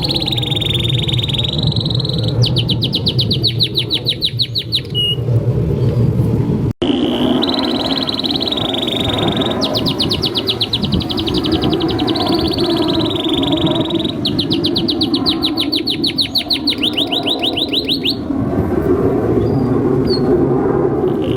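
Domestic canary singing a long, continuous song. Runs of fast, evenly repeated trill notes alternate with held whistled phrases, over a steady low background hiss. A split-second break in the sound comes about seven seconds in.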